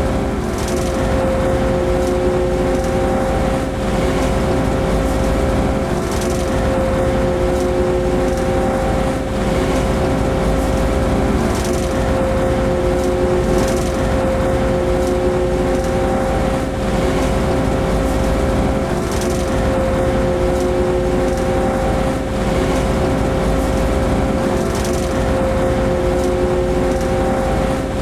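Steady running noise inside a locomotive cab while the train is under way: a constant hum that holds several steady tones, with no breaks or sudden events.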